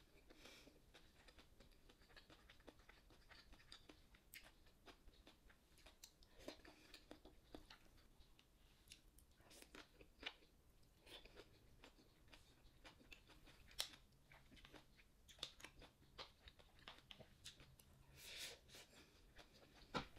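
Faint sounds of a person eating: quiet chewing, with scattered light clicks.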